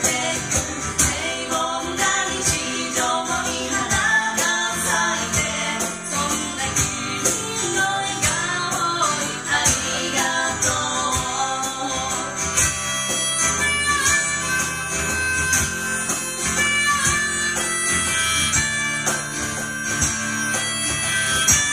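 An acoustic pop song played live by a duo: guitar with steady tambourine-like percussion strikes and singing. About halfway in, long held instrumental notes, like a harmonica, carry the melody.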